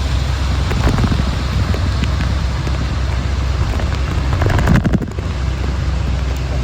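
Heavy rain with wind buffeting the microphone: a loud, steady rush with rumble and crackle.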